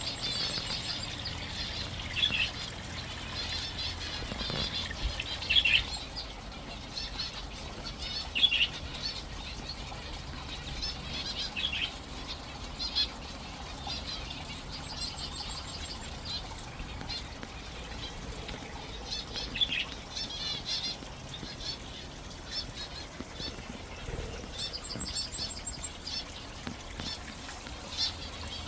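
Small aviary birds chirping in short, repeated high calls, with bursts of wing flutter, over the steady trickle of a small pondless waterfall.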